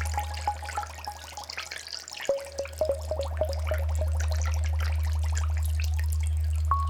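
Water dripping and trickling in quick small plops, over a steady low drone. Short repeated pitched notes of ambient music sound along with the water.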